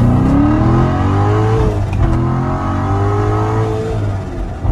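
Supercharged 6.2-litre V8 of a 2014 Corvette Stingray accelerating hard, heard from inside the cabin. The engine note rises as it pulls, drops once about two seconds in at an upshift, then climbs again before levelling off near the end.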